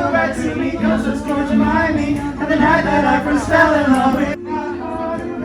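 Several voices singing together over music, loud enough to drown out talk; the sound changes abruptly a little after four seconds in.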